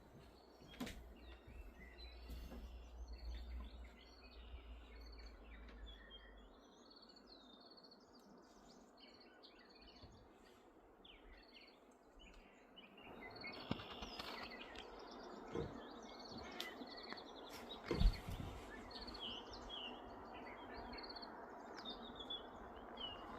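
Faint outdoor ambience of many small birds chirping and calling. There is a low rumble for the first several seconds and a single sharp thump about eighteen seconds in.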